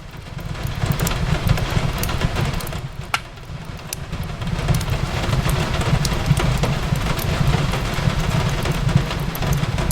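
Wood fire crackling, with sharp pops scattered throughout and a louder pop about three seconds in, over a steady low rumble and the hiss of rain.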